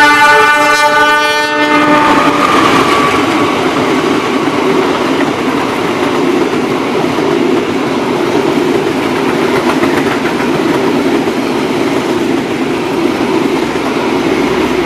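A CC206 diesel-electric locomotive blows a multi-tone horn as it passes, and the horn cuts off about two seconds in. After that comes the steady rush and clatter of the passenger coaches' wheels on the rails as the train goes by at speed.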